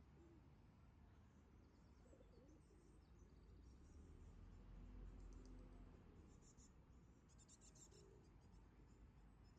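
Near silence: faint outdoor ambience, a low rumble that swells briefly midway, with faint scattered high clicks and chirps.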